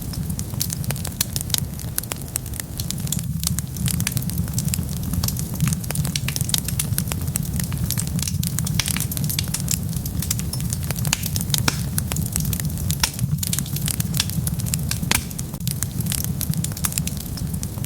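Wood fire burning steadily: dense, irregular crackling over a constant low rumble.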